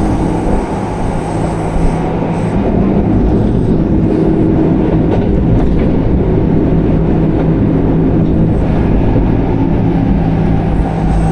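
Electric train running along the track: a steady rumble with a low hum.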